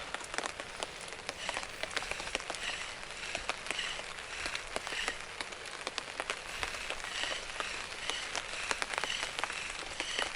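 Rain falling steadily, with many close drops ticking.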